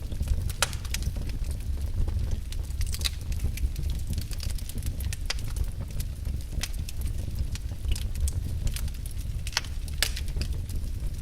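Wood fire burning in a fireplace: logs crackling and popping in sharp, irregular snaps over a steady low rumble of the flames.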